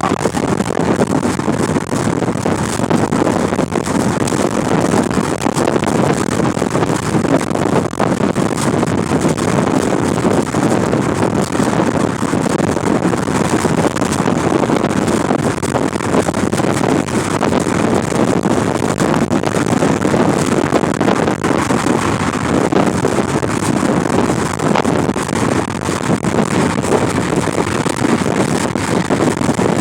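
Loud, steady wind noise rushing over the microphone in a car, drowning out everything else.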